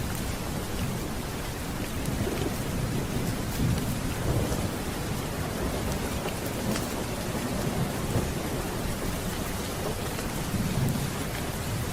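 Steady heavy rain with low rolling thunder that swells about four seconds in and again near the end.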